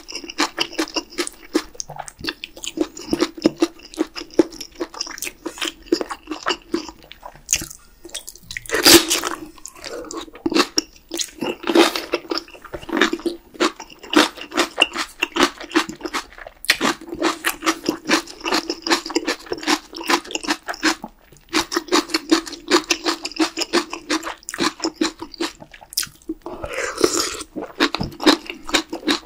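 Close-miked chewing and crunching of kimchi and spicy beef stew, with quick wet mouth clicks. Near the end comes a long slurp as noodles are drawn in from a spoon.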